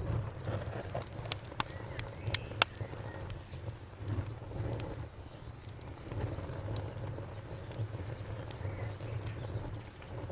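Campfire crackling, with several sharp pops in the first few seconds, under a cricket chirping in a steady high-pitched pulse.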